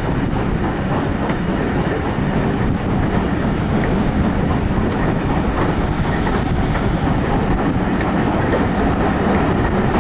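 Steam-hauled passenger train running on the rails, heard from a carriage window: a steady rumble of the coaches' wheels with a few light clicks from the rail joints.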